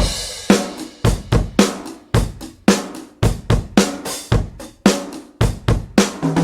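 Sampled acoustic drum kit from the Toontrack EZDrummer 3 plugin playing a groove of kick, snare, hi-hat and cymbals, starting suddenly with a crash, with strong hits about twice a second. A low held tone joins near the end.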